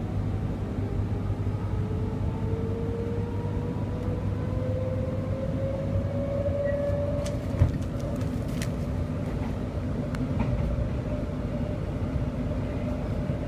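Electric suburban train running, heard inside the carriage: a steady rumble of wheels on the track with a whine that rises slowly in pitch over the first half. A few sharp clicks and one louder knock come after about seven seconds.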